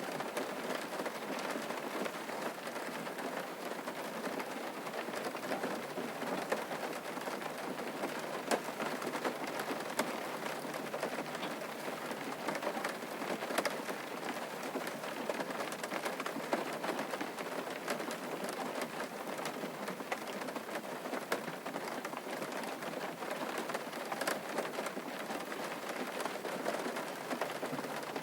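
Steady rain falling on a surface, a continuous patter dotted with the sharp ticks of single drops.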